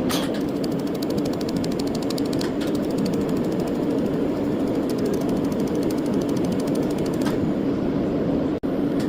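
Steady workshop machine noise with fine rapid ticking and a few sharp clicks, at about the start, two and a half seconds in and about seven seconds in.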